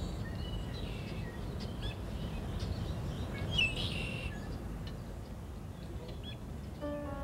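Small birds chirping in short bursts over a steady low outdoor background noise. A few piano-like music notes start near the end.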